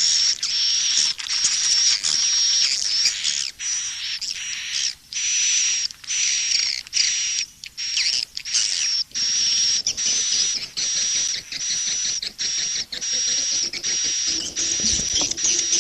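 Swiftlet calls played as a lure recording: dense, high-pitched twittering chirps repeating continuously, broken by many brief gaps. This is a calling-sound (suara panggil) mix, used in swiftlet houses to draw birds in.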